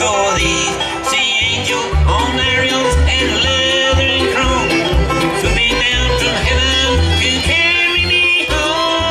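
Live bluegrass band playing an instrumental break, with banjo, guitar and fiddle over a steady bass beat.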